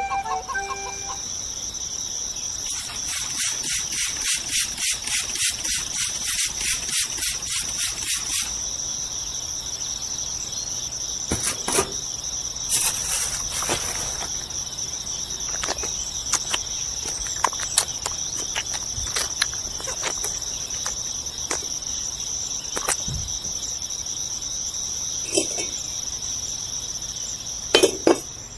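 Insects trilling steadily in a high, continuous tone, pulsing at about four to five beats a second for a few seconds early on, with scattered sharp clicks and taps.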